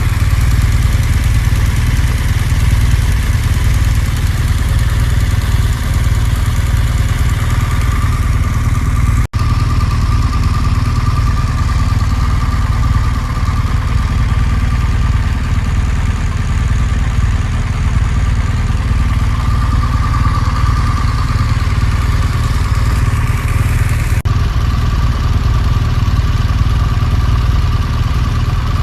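Motorcycle engine running steadily under way, with a heavy low rumble on the microphone. Two momentary dropouts come about nine and twenty-four seconds in.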